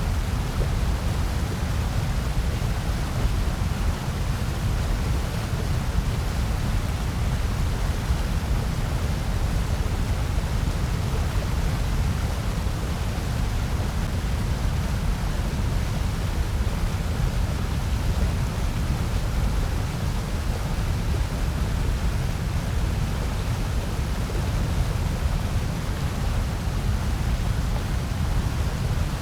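Steady electronically generated noise, an even, unchanging hiss with its heaviest part a low rumble underneath.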